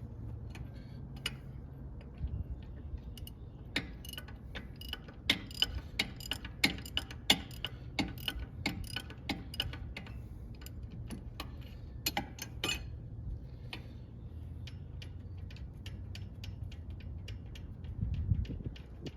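Irregular sharp metallic clicks and clinks of hand tools working on a truck's brake assembly, thickest in the middle, over a steady low hum.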